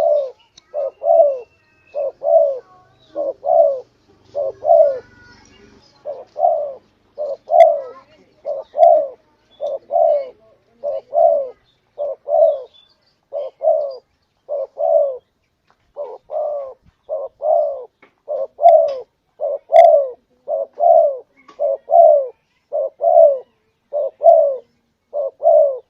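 Spotted dove cooing: a long, unbroken series of short, mellow coos repeating in quick succession.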